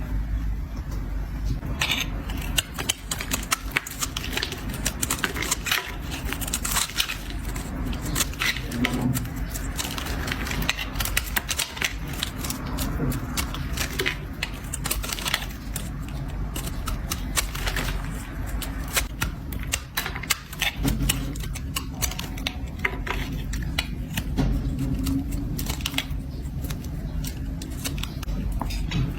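A blade scraping and cutting into a bar of soap: a dense, irregular run of crisp crackles and scrapes over a steady low background.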